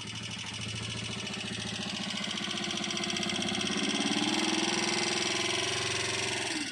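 Honda TMX125 Alpha's single-cylinder four-stroke engine running through its exhaust, with the throttle slowly opened so the engine speed rises, held high for a couple of seconds, then let fall back near the end.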